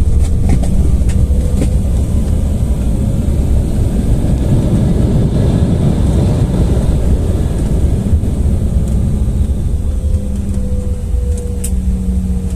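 Airliner cabin noise on the ground just after landing: a steady low rumble of engines and rolling gear that swells louder for a few seconds in the middle, with a few faint clicks.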